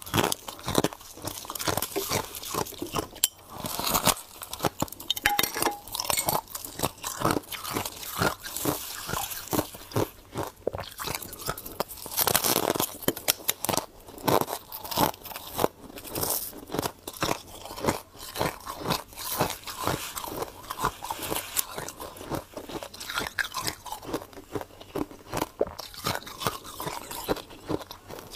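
Ice being bitten and chewed close to the microphone: a continuous, irregular run of loud crunches and crackles.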